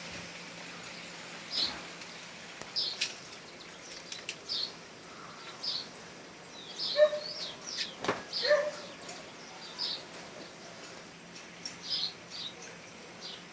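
Birds chirping: short chirps repeated about once a second, with sharp high ticks in between and a few lower calls in the middle.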